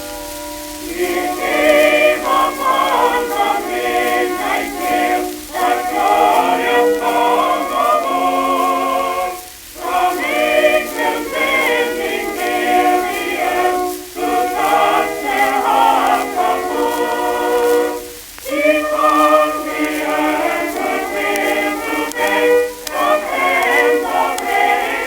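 Early shellac phonograph record playing a choir singing with accompaniment, the sound narrow and muffled with nothing above the upper midrange. Faint surface crackle runs beneath it. The singing pauses briefly between phrases about a third of the way in, just past the middle, and about three quarters of the way in.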